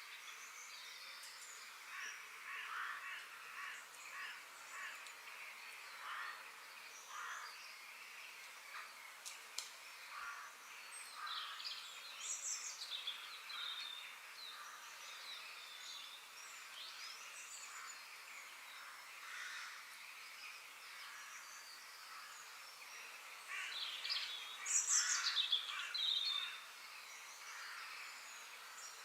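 Wild birds calling and chirping over a steady outdoor hiss, with a louder flurry of calls near the end.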